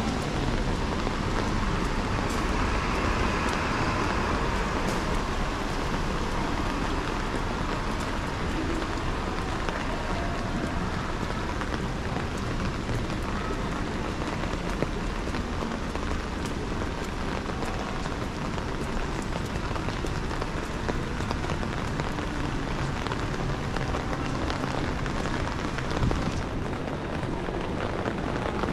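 Steady rain falling, with a low rumble of city traffic underneath.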